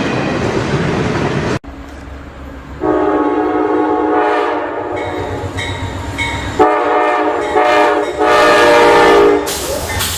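Freight train rolling past with steady wheel-on-rail clatter, cut off abruptly. Then a diesel locomotive's multi-chime air horn sounds in several long blasts, the last one loudest, as part of a horn show.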